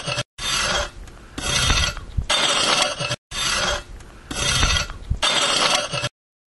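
Garden hoe scraping across the top of the soil, digging up weeds: a series of rasping scrapes, about one a second, cutting off suddenly near the end.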